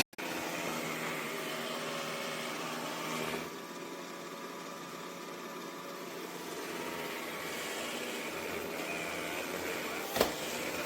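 Dreame X50 Ultra robot vacuum running: the steady whir of its motor and brushes, easing slightly about three and a half seconds in, with a short click about ten seconds in.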